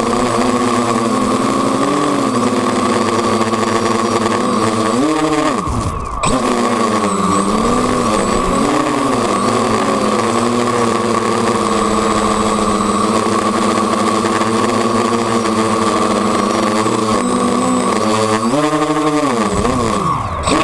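FPV quadcopter's electric motors and propellers buzzing, the pitch rising and falling as the throttle changes, with a brief drop-out about six seconds in.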